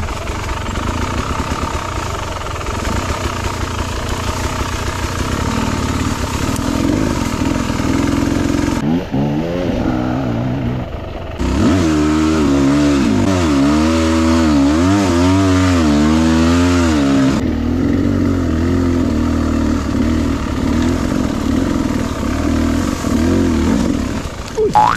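Beta 300RR two-stroke enduro motorcycle engine running under way. From about nine seconds in it revs up and down repeatedly for several seconds, loudest around the middle, then settles to a steadier pull.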